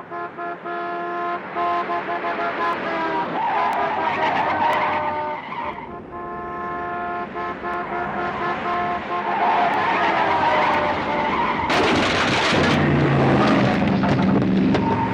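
Cars racing with tires squealing in long drawn-out tones and engines running, building to a loud skid about twelve seconds in.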